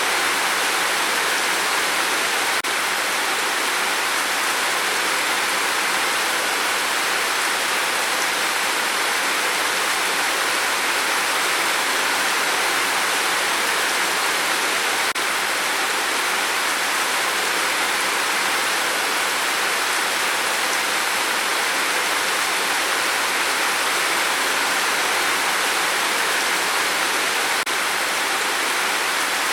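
Heavy rain falling on a tin roof: a dense, steady hiss with no single drops standing out.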